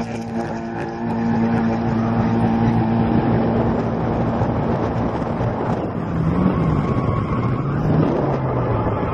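Drift car's engine heard from the roof, held at one steady pitch for about five seconds, then dropping and climbing again several times as the driver works the throttle, with wind buffeting the microphone.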